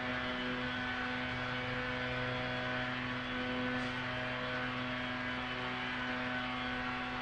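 A motor running at a constant speed, giving a steady hum with no change in pitch.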